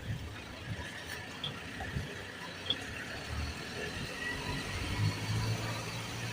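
Isuzu garbage truck's diesel engine running with a low rumble, its hum growing steadier and a little louder about five seconds in.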